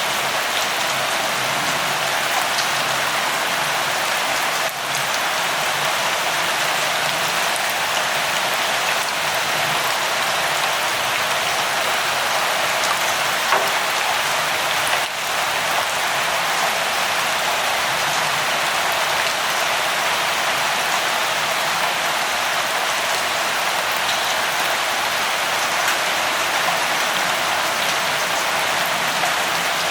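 Steady light rain falling, an even hiss with scattered drop ticks.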